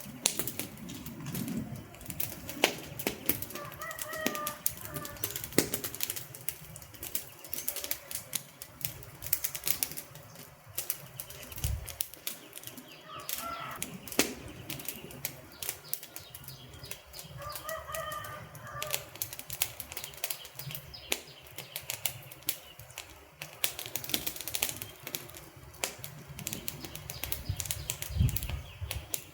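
Wood fire crackling and popping with dense, irregular snaps, and a few short pitched calls in the background about 4, 13 and 18 seconds in.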